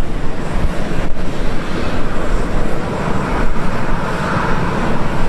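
Jet airliner engines running, a steady rushing noise with a heavy low rumble that swells a little from about three seconds in.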